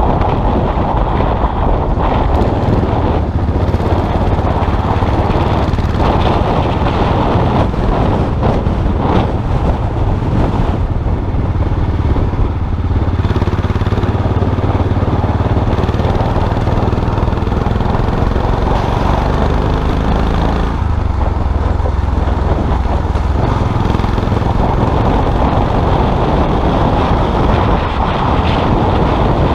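Custom-style motorcycle engine running under way, with wind on the microphone. The engine pitch climbs slowly and then drops about two-thirds of the way through, like a gear change.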